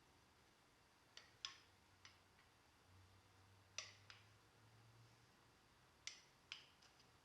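Faint, light metallic clicks and taps, about seven scattered over a few seconds, as Camaro door hinge parts are handled and fitted together, over a faint steady low hum.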